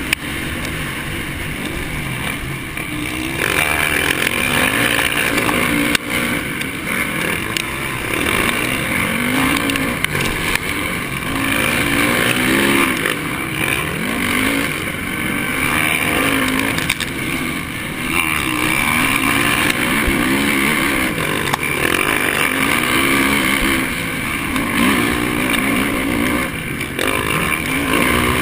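Honda 450 motocross bike's single-cylinder four-stroke engine under race load, its pitch climbing and dropping again and again as it accelerates, shifts and backs off around the track.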